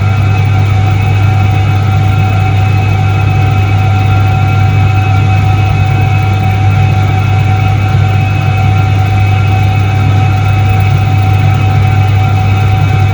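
1978 Soviet Iset-3 washing machine running with a steady, unchanging motor hum and several constant higher tones over it.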